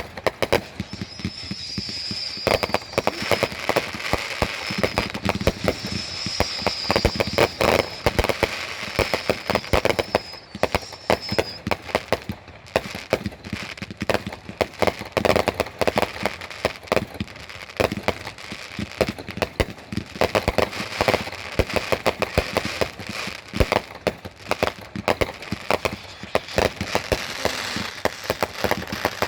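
Consumer fireworks going off in rapid succession: dense crackling and popping with frequent sharp bangs. A high wavering sound rides over the crackle for roughly the first third.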